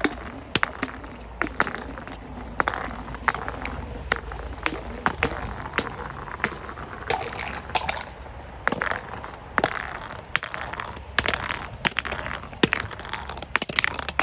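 Crunchy objects being crushed: an irregular string of sharp cracks and crunches, roughly two a second.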